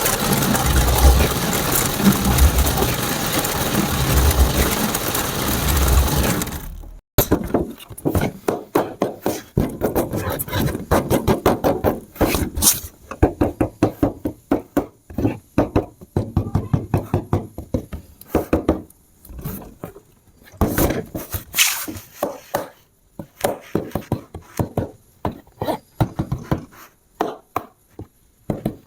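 Toy RC construction vehicle's engine-idle sound effect, loud and steady with a low pulse about once a second, which stops abruptly about seven seconds in. It is followed by rapid, irregular plastic clicking and rattling.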